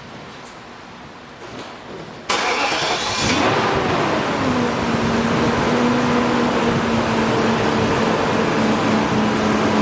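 A 1998 BMW 540i's 4.4-litre V8 engine starting about two seconds in, flaring up and then dropping into a steady idle. It runs after a repair to the cylinder 7 injector connector and a broken ground wire, which had caused a misfire.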